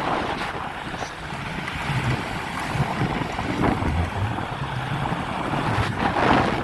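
Wind buffeting the microphone while riding a bicycle, with a low uneven rumble and a louder gust about six seconds in.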